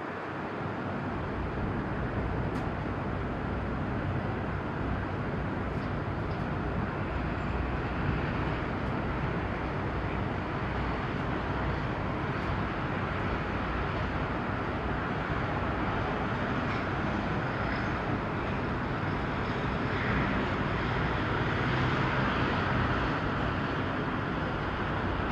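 Steady low engine rumble under a continuous wash of outdoor noise, swelling slightly about twenty seconds in.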